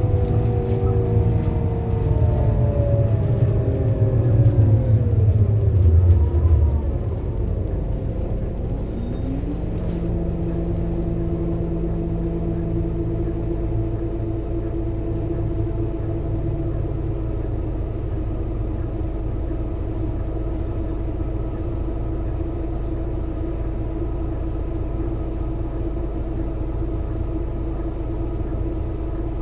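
Scania K230UB city bus's five-cylinder diesel engine with its ZF Ecomat automatic gearbox, slowing down with the engine pitch falling over the first several seconds. It then settles to a steady idle for the rest.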